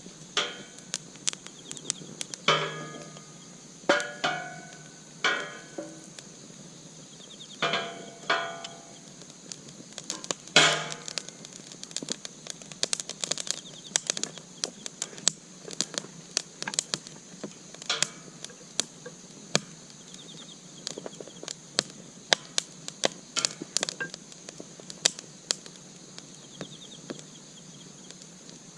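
Campfire crackling with irregular sharp pops, and a handful of short ringing metallic clanks, most of them in the first ten seconds, like cookware being handled. A steady high hiss runs underneath.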